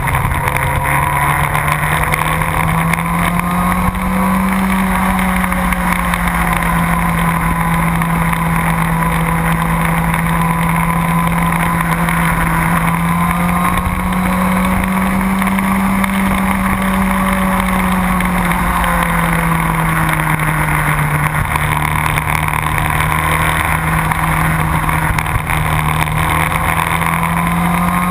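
Motorcycle engine running at speed under heavy wind noise, its pitch rising and falling slowly three times as the throttle is opened and eased.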